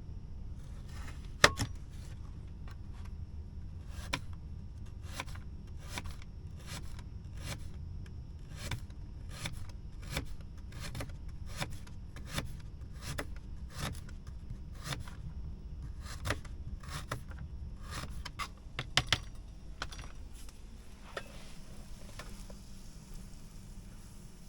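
Food being cut by hand in a steady run of short strokes, roughly one and a half a second, with a sharp knock about one and a half seconds in and a few louder knocks near the end before the strokes stop.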